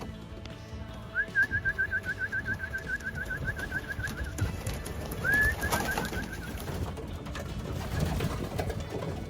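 A bird calling: a quick run of about twenty short chirps over some three seconds, then a single rising note followed by a shorter run of chirps.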